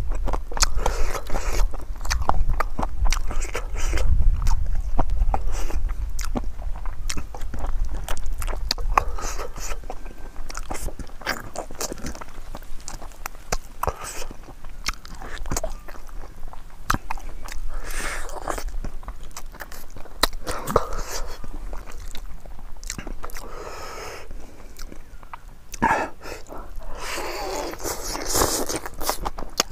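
Close-miked chewing and biting as a person eats pig trotters with rice and leafy greens, with many short clicks of the mouth throughout.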